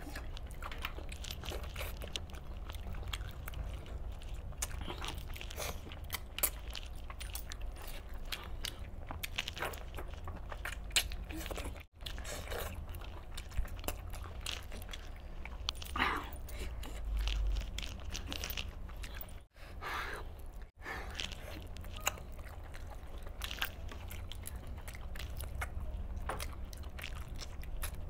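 Close-up chewing and biting of chicken pieces in a wet curry gravy: many small smacking, squelching and clicking mouth noises, with meat torn off the bone by hand. A steady low hum runs underneath, and the sound cuts out briefly three times, once about twelve seconds in and twice around twenty seconds.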